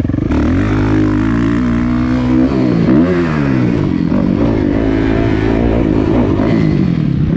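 Kawasaki KX450F dirt bike's single-cylinder four-stroke engine revving hard while riding, its pitch climbing and falling repeatedly as the throttle is opened and rolled off, with a sharp drop and quick climb about three seconds in.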